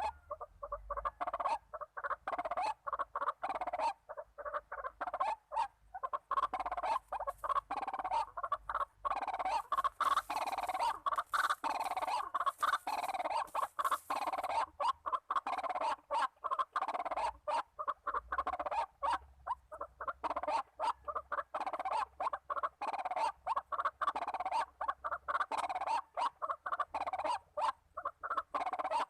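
White-breasted waterhen (ruak-ruak) calls, a dense run of rapidly repeated croaking notes that goes on without a pause.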